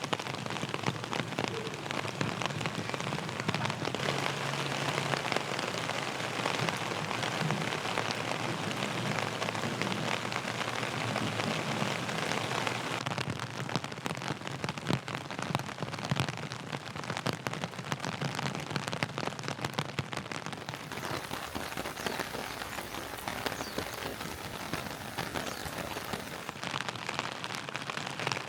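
Steady rain falling, an even hiss dense with the ticks of individual drops hitting close by.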